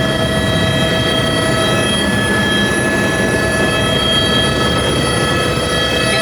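An engine running steadily at constant speed: a loud, unchanging drone with several steady whining tones over it.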